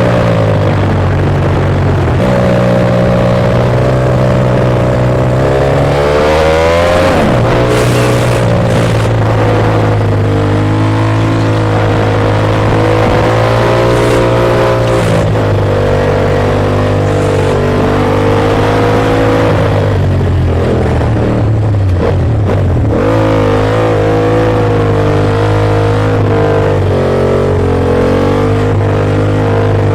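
Ducati Monster S2R's L-twin engine running under way at fairly steady revs. Its pitch dips and climbs again about seven seconds in, and once more around twenty to twenty-three seconds, as throttle and speed change.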